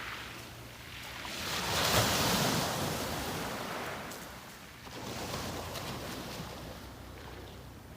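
Sea waves breaking and washing up on the shore, one wave loudest about two seconds in and a smaller one about five seconds in.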